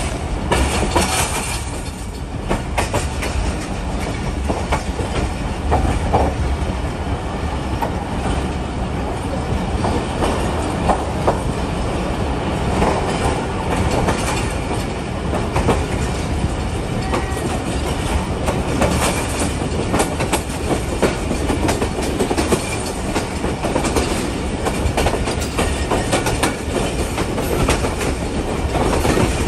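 Passenger train running along the track, its wheels clacking and knocking over the rail joints, with a steady rumble throughout.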